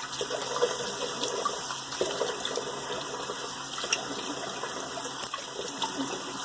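Water running from a bathroom tap into a sink, with irregular splashing as alum is rinsed off the face after a shave.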